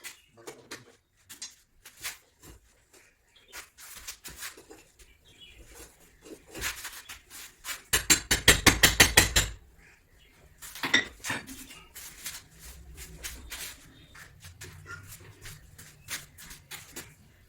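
Hard objects being handled, clicking and knocking irregularly, with a fast, loud rattling run of clicks about eight seconds in that lasts a second and a half.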